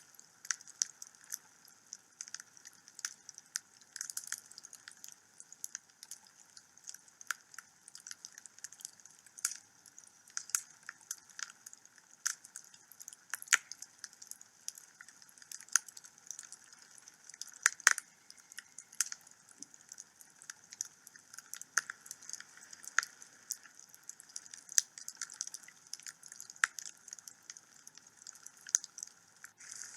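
Wood fire burning in a fireplace: constant irregular crackling and sharp pops over a soft hiss, with a couple of louder pops about halfway through.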